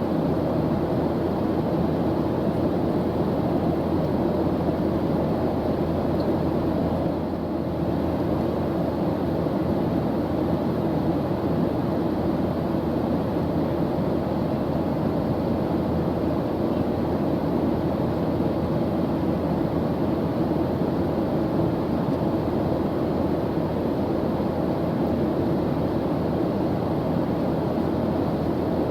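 Airplane engine noise: a steady, even drone with no change in pitch, heaviest in the low and middle range. There is one slight momentary dip in level about seven seconds in.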